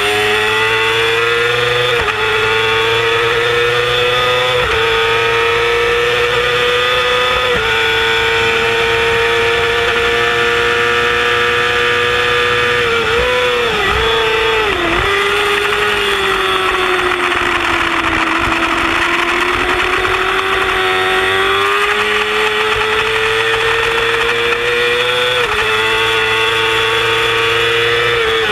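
Yamaha YZF-R6 600 cc inline-four racing motorcycle engine at high revs on track, shifting up about two, five and eight seconds in. It downshifts with throttle blips around thirteen to fifteen seconds, pulls back up through a long steady rise, shifts up again near the end and starts downshifting just before it closes.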